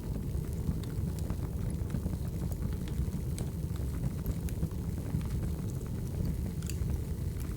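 Wood fire burning: a steady low rumble with scattered sharp crackles and pops from the burning firewood.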